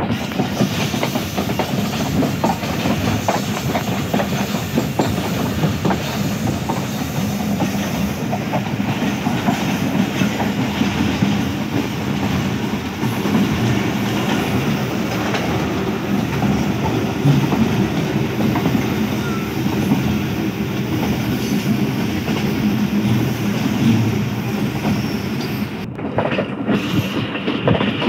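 Passenger train running, heard from an open carriage window: a steady rumble of the moving coach with the rapid clickety-clack of its wheels over the rails.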